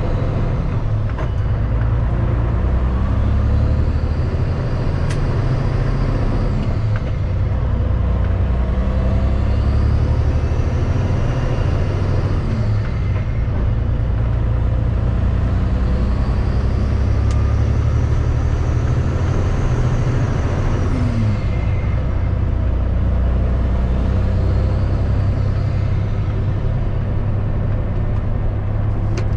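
Kenworth W900 semi truck's diesel engine running under way, a steady low drone with a higher whine that rises and falls about four times.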